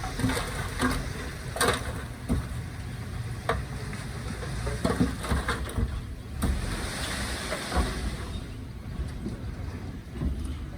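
Heavy diesel earthmoving machinery at work: a low engine rumble broken by scattered knocks and clanks.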